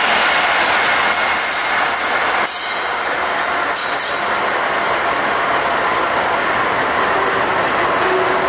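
A GE AC44C6M diesel-electric freight locomotive rolls past at close range, followed by tank cars: steady diesel engine sound mixed with steel wheels on rail, with thin high tones running through it.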